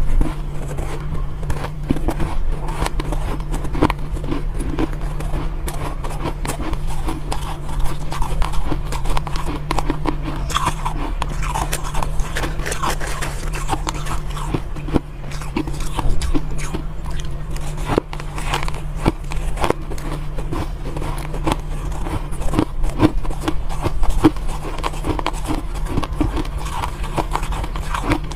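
Soft ice being bitten and chewed: many quick, irregular crunches, over a steady low hum.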